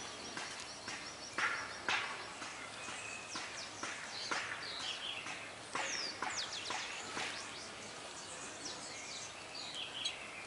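Several small songbirds chirping, a scatter of short sharp calls and quick downward-sliding notes overlapping.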